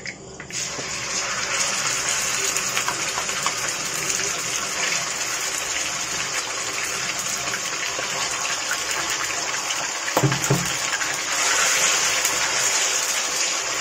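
Raw boneless chicken pieces hitting hot oil in a non-stick wok and sizzling steadily as they fry, starting about half a second in, stirred with a wooden spatula. A brief knock about ten seconds in.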